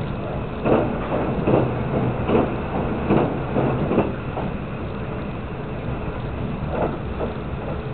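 Passenger train running, heard from inside the carriage: a steady rumble with rhythmic clacks of the wheels over rail joints, about one every second during the first half, then two more near the end.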